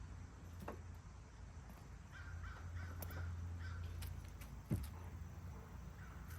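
Bird calls: a run of short, repeated caws about two seconds in and again near the end, over a steady low hum. A single dull thump comes just before five seconds in.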